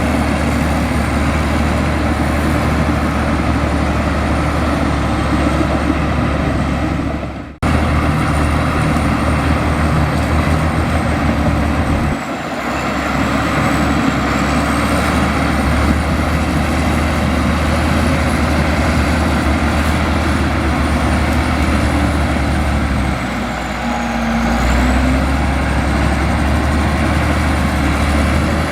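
Bulldozer's diesel engine running steadily and loud, with a thin high whine that wavers in pitch over it. The sound cuts out for an instant about seven and a half seconds in.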